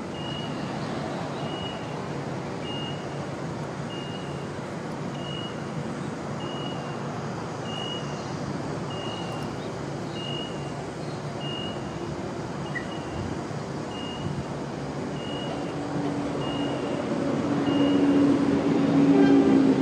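Electric suburban train arriving, its motor hum rising and getting louder over the last few seconds. Before it, over a steady background rumble, a high electronic beep repeats about every second and a quarter, stopping as the train comes in.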